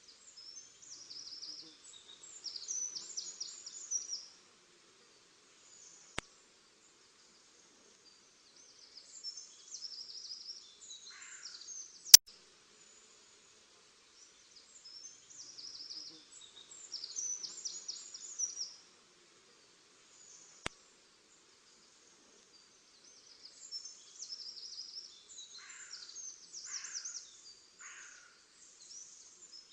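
Small birds singing in short, high twittering phrases that recur every few seconds, with a few lower calls between them. Three sharp clicks cut in, one of them loud, about twelve seconds in.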